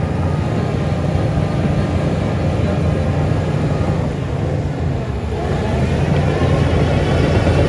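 Bulldozer's diesel engine running steadily, easing off briefly about five seconds in and then building up again.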